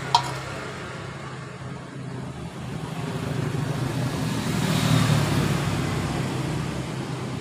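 Steady background road traffic, with a vehicle passing that swells and fades about five seconds in; a sharp click right at the start.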